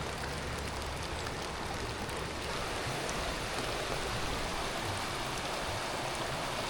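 Steady rainfall mixed with the constant rush of a river swollen by runoff, with faint scattered raindrop ticks.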